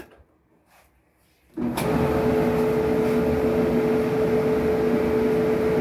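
Kenmore clothes dryer started about a second and a half in, then running steadily with a low motor hum and the drum turning on its newly replaced support rollers.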